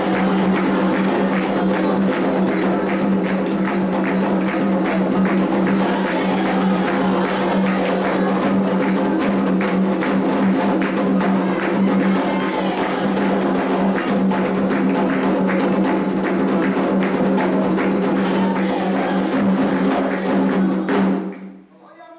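Candomblé atabaque drums with a struck bell, playing a fast, dense ceremonial rhythm for Iansã's dance, then stopping abruptly about a second before the end.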